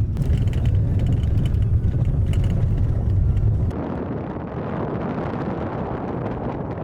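Car rumbling over a rough gravel road, heard from inside the cabin, with small knocks and rattles. After about four seconds it cuts abruptly to a quieter, even rushing noise without the rumble.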